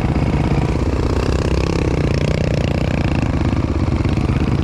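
Dirt bike engine running steadily under way, its pitch rising and falling a little around the middle.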